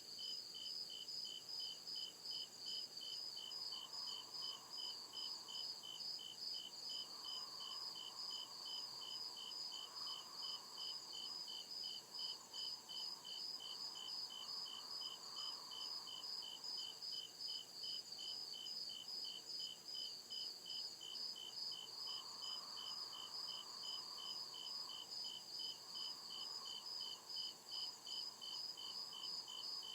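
Crickets chirping in a steady, even rhythm of short high chirps, over a continuous higher insect trill. A faint lower hum swells and fades several times.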